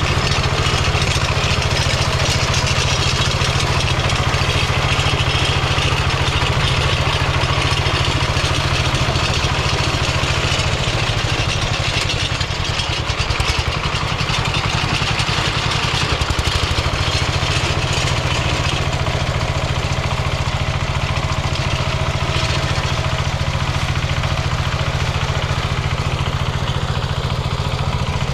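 Diesel engine of a Kentavr MB 1010DE-6 walk-behind tractor running steadily with an even low-pitched chugging, dipping slightly in level about halfway through.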